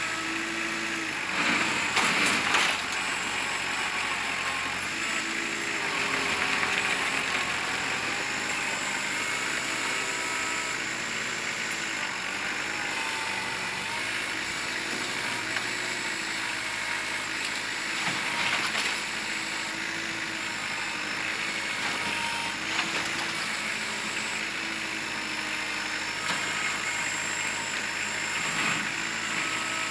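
Kubota L4600 tractor's diesel engine running while it works, its pitch rising and falling with the throttle, with a few knocks along the way, loudest about two seconds in.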